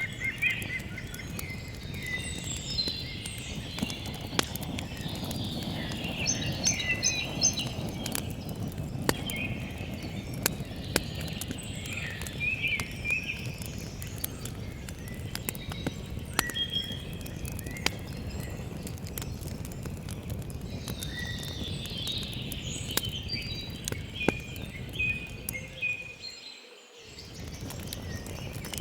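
Wood campfire crackling with frequent sharp pops, while songbirds chirp and sing. The sound briefly dips about two seconds before the end.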